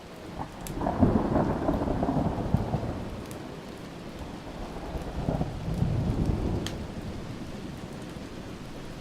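Thunder rumbling over steady rain. A loud roll builds about half a second in and fades over a couple of seconds, then a second, weaker roll swells a few seconds later.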